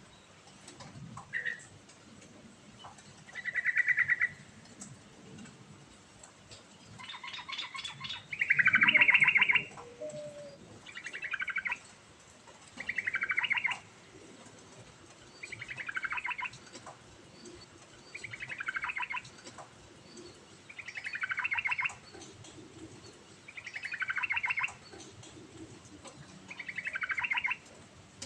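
Yellow-vented bulbul singing: a string of short bubbly phrases, each about a second long and falling in pitch, repeated every two to three seconds, with a few shorter single notes near the start.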